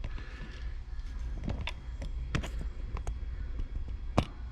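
Used-oil jugs and a waste-oil drum being handled and set up for pouring: a scattered series of sharp clicks and knocks, the loudest about four seconds in, over a steady low rumble.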